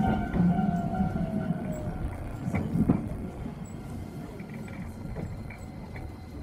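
Chikuho Electric Railway train heard from inside the car as it brakes into a station: the running rumble dies away, a motor whine falls in pitch over the first two seconds, and a couple of knocks from the wheels come about two and a half to three seconds in.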